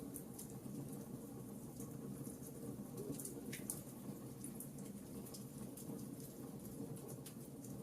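Campfire burning, with irregular sharp crackles and pops over a low, steady noise of the flames.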